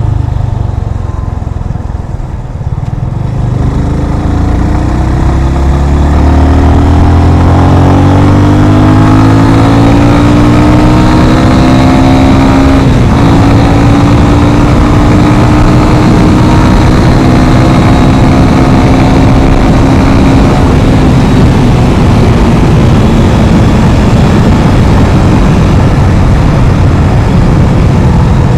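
Yamaha FZ25's single-cylinder engine pulling away and accelerating, its pitch rising steadily for several seconds, then a brief break as it shifts gear. It then runs at a steady speed and fades into a steady rush of wind and road noise.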